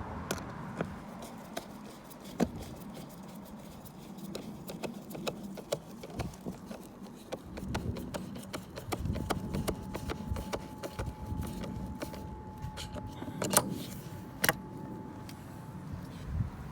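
Scattered clicks and knocks of handling things, two louder about thirteen and fourteen seconds in, with a faint steady whine through the second half.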